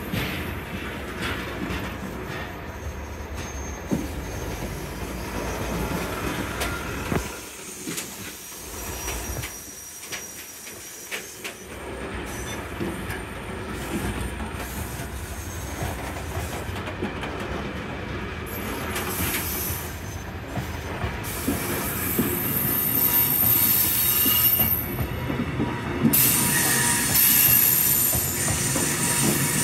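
Freight train of JNA open box wagons rolling past on the rails, wheels rumbling and clattering, with thin high-pitched wheel squeal that grows stronger in the second half. The sound eases off for a few seconds about eight seconds in, then builds again and is loudest near the end.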